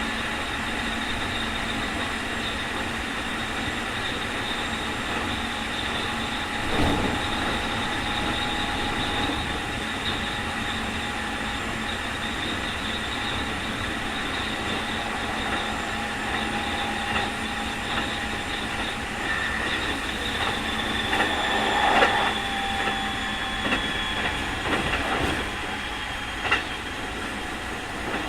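Running sound inside a Keikyu 2000 series electric train with Mitsubishi field-chopper control, cruising at steady speed: rolling wheel and rail noise under a steady high whine, the strong 'jet sound' of this abnormal-noise car. Sharp wheel knocks over rail joints come about seven seconds in and twice near the end.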